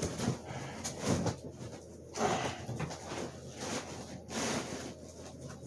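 Packing material and cardboard rustling and scraping in irregular bursts as a box fan is unpacked by hand.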